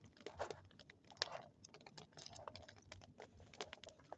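Bonfire crackling: burning wood giving off irregular, rapid sharp pops and snaps.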